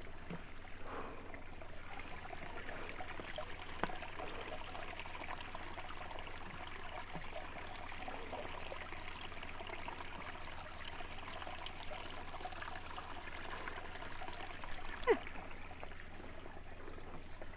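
Shallow creek water trickling over rocks, a steady even rush of flowing water.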